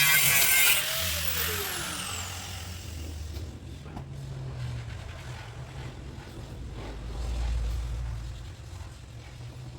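A low, steady mechanical hum with a few faint clicks, swelling deeper for a moment about three-quarters of the way through. A falling whoosh-like sweep comes just after music stops, about a second in.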